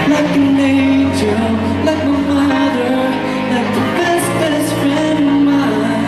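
Live pop ballad performance: a male singer's voice over a backing track through a hall sound system.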